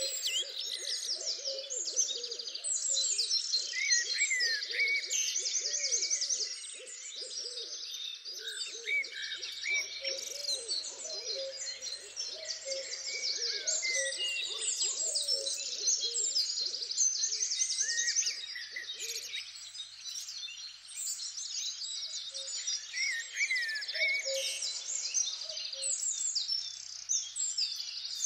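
Dense chorus of many wild birds calling and singing, quick chirps and trills overlapping throughout, with a layer of lower-pitched calls underneath that stops about two-thirds of the way through.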